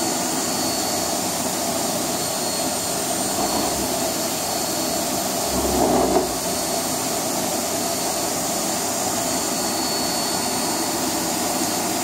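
Vacuum cleaner running steadily, a constant motor noise with a thin high whine. It briefly swells louder, with a low bump, about halfway through.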